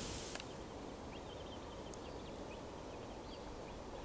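Faint bird chirping: a run of short, quick calls over a low, steady rumble.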